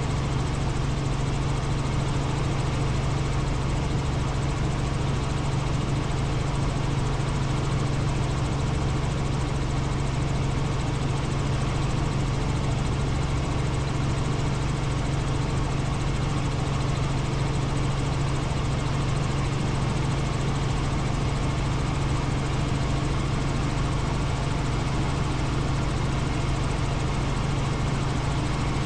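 Helicopter in flight: the steady drone of its engine and rotor, with a strong constant low hum and an even rushing noise that never changes in level.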